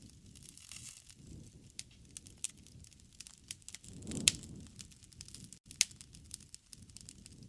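Wood fire crackling, with sharp irregular pops over a low, soft rush of the flames. A louder pop comes a little past halfway, on a brief swell of the low rush.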